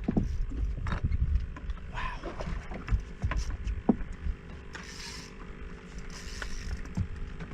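Knocks and rumbling on a small fishing boat under way during a fight with a fish, with a faint steady hum and a few short hissing bursts.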